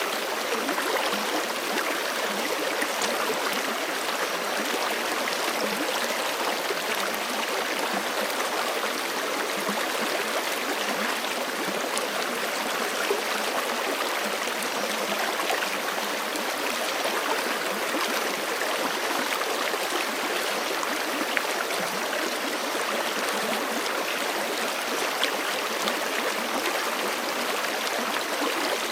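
Forest creek flowing steadily over rocks, a continuous rush of water with small splashes and gurgles.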